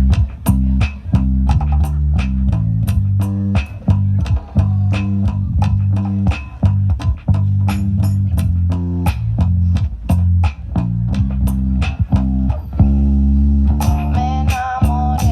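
A live band playing an instrumental passage, with a prominent bass guitar line, guitar, and a drummer's cymbal ticks keeping a steady beat about four times a second. A wavering higher melodic line comes in near the end.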